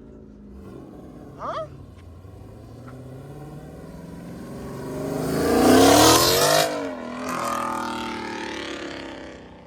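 Car engine revving hard as the car accelerates away, climbing in pitch to its loudest about six seconds in, then dropping suddenly, picking up again and fading off.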